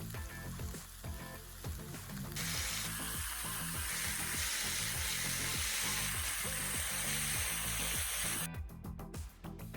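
Marinated rib-eye steak sizzling as it cooks, a hissing spatter that grows much louder about two seconds in and cuts off suddenly about a second before the end. Background music plays underneath.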